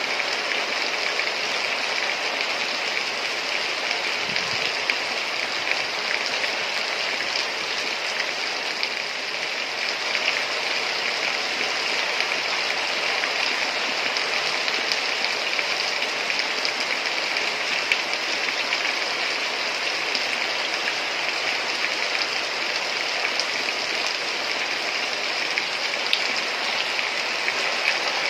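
Heavy rain falling steadily, a dense even hiss with a few sharper drop ticks here and there.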